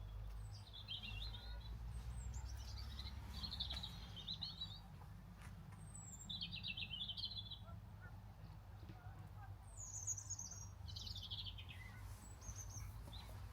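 Small songbirds chirping in short twittering phrases every couple of seconds, over a low steady rumble.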